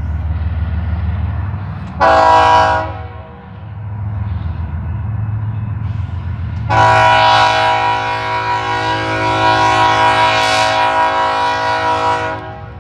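Diesel locomotive air horn sounding its chord: a blast of about a second, then a long blast starting about seven seconds in and lasting some five seconds, over the low rumble of the train.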